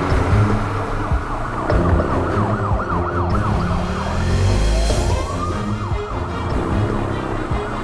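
Emergency-vehicle siren: a fast warble that changes about halfway through to a slow rising and falling wail, over a low rumble.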